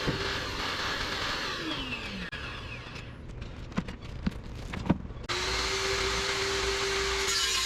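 An electric power tool motor running at speed, winding down with a falling pitch about two seconds in. A few sharp knocks follow, then the motor runs again at steady speed from about five seconds in.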